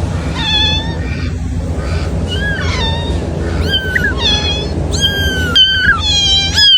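Cat meowing repeatedly: a string of high-pitched meows that come closer together in the last couple of seconds.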